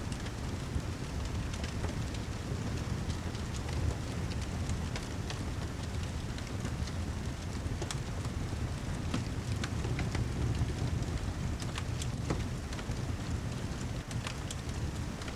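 Steady heavy rain with a low rumble underneath, mixed with the scattered sharp crackles of a fireplace.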